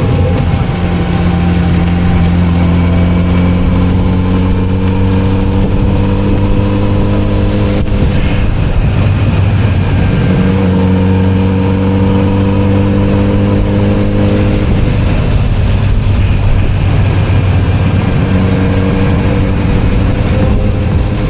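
Kawasaki Z900RS inline-four engine running under way at road speed. Its note slowly rises in pitch, breaks off twice for a couple of seconds, then picks up again.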